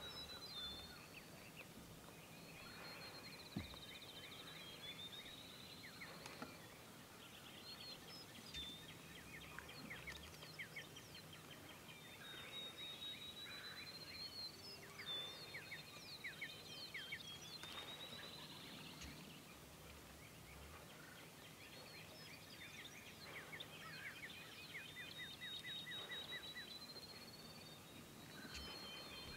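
Small birds singing: a high song of quick trills and rising whistles, repeated every few seconds over faint outdoor background.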